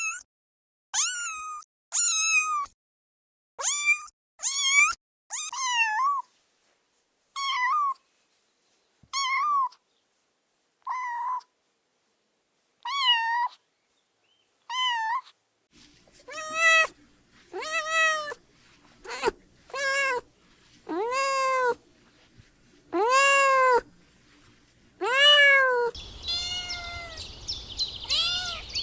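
Kittens meowing over and over. The first half is a string of short, high-pitched mews with pauses between them. From about halfway the meows are lower and more drawn out over a faint steady hum, and near the end high chirping sets in behind them.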